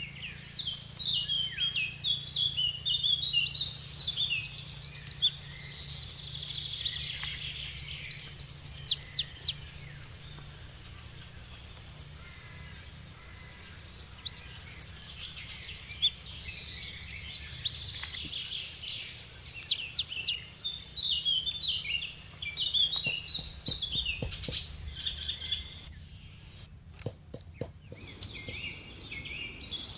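A songbird singing: two long, intricate song phrases full of quick notes and rapid trills, a few seconds apart, then softer scattered chirps.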